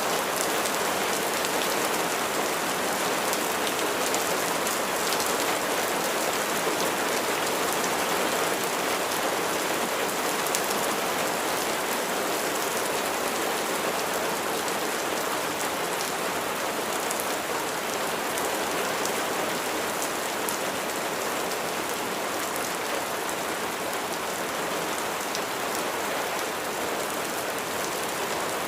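Steady rain falling on a surface, an even hiss with scattered drop ticks, easing slightly in loudness toward the end.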